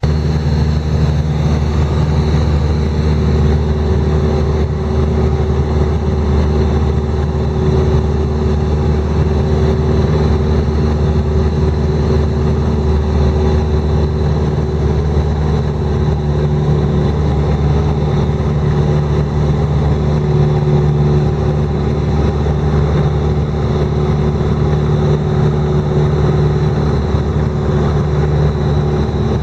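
An engine running steadily: a constant low drone that neither rises nor falls.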